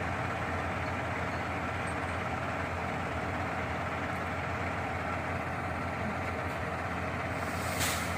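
Shingle delivery truck's engine running steadily at idle, with a brief hiss near the end.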